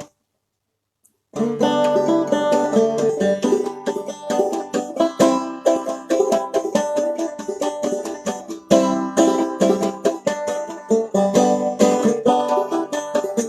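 After about a second of dead silence, a banjo played in clawhammer style starts up, a brisk, continuous run of plucked notes.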